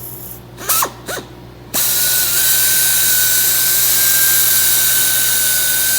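Small pneumatic mini buffer blipped twice briefly, then run continuously: a loud steady rush of air with a high, even whine.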